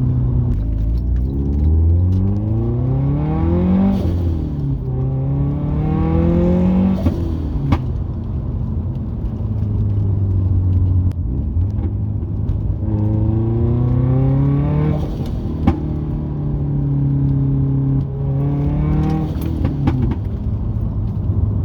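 Turbocharged flat-four engine of a modified 2007 Subaru Liberty GT Spec B, heard from inside the cabin, accelerating through the gears. The revs climb and then drop sharply at each gear change, about four times. Short sharp cracks come at the shifts, and the engine cruises steadily between the pulls.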